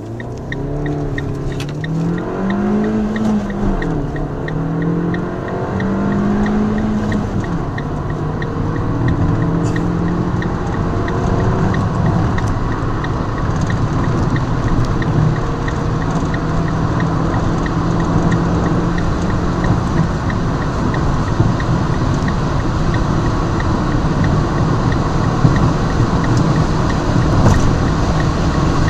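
Fiat Grande Punto engine accelerating hard through the gears. Its pitch climbs and drops back at gear changes about three and seven seconds in, then holds through longer pulls in the higher gears as road and wind noise build.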